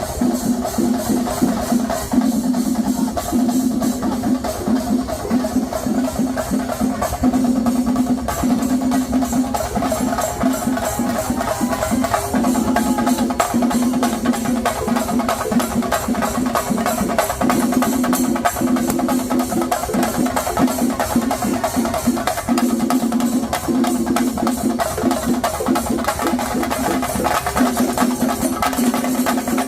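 Fast, continuous traditional temple drumming of the chenda ensemble that accompanies theyyam, a dense run of sharp strokes with a low held tone that cuts in and out every second or so.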